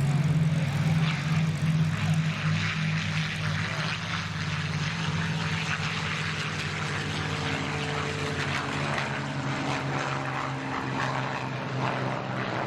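Propeller aircraft's piston engine running in flight, a steady drone that is loudest in the first couple of seconds and eases slightly after.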